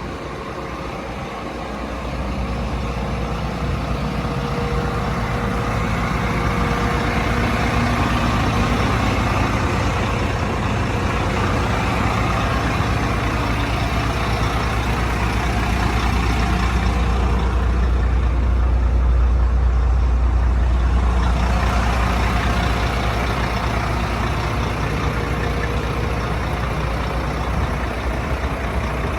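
Fire engine's engine running with a deep, steady rumble, growing louder over the first few seconds and heaviest about two-thirds of the way through.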